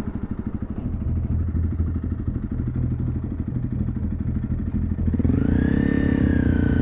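Honda CRF300 Rally's single-cylinder engine running with a steady, rapid pulse. About five seconds in, music comes in over it.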